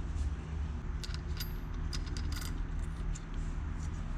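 Light metallic clicks and ticks as a gear is slid onto the ATV engine's crankshaft, a few scattered taps, over a steady low hum.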